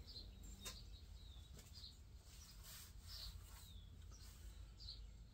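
Faint short bird chirps, roughly one a second and some sliding downward in pitch, over near silence, with a couple of faint clicks.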